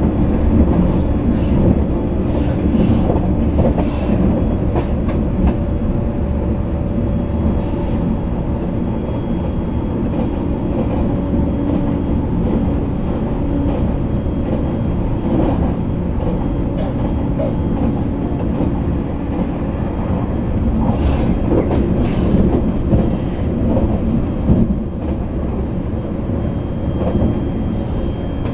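E657 series electric limited-express train running at speed, heard inside the passenger car: a steady rumble of wheels on rail with faint, scattered clicks of rail joints.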